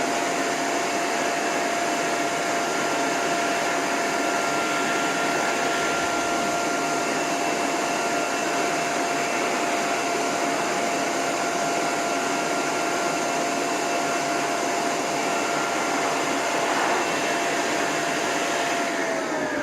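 Pet grooming hose dryer blowing with its end nozzle off: a steady rush of air over a constant motor whine. Near the end the whine starts to fall in pitch as the motor winds down.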